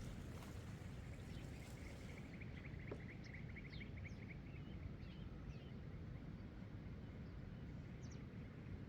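Small birds chirping outdoors, short high calls scattered throughout, one giving a fast trill from about one and a half to three and a half seconds in, over a steady low rumble.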